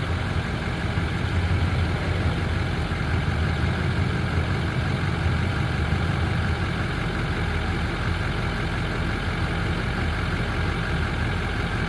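A 2006 Chevy 3500 pickup's engine idling steadily.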